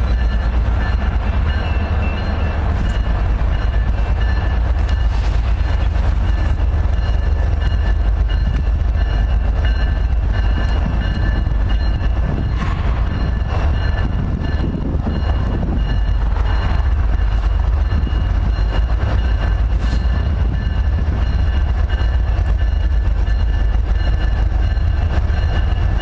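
A train rolling past, its wheels on the rails making a steady, heavy rumble with a few faint, steady high tones over it.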